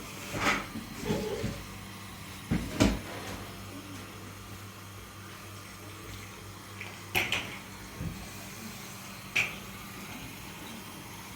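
Household objects being handled: a handful of scattered knocks and clatters, the loudest about three seconds in, over a steady low hum.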